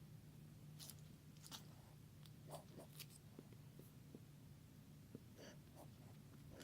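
Near silence with a faint steady hum and a few faint, scattered taps, fingertips tapping the glass of a freshly installed iPad Air touchscreen to test that touch works.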